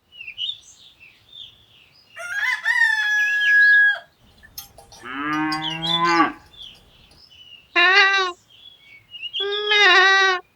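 Farm animal calls one after another: a rooster crowing about two seconds in, then a cow mooing, then two shorter, higher, wavering animal calls, with small bird chirps in between.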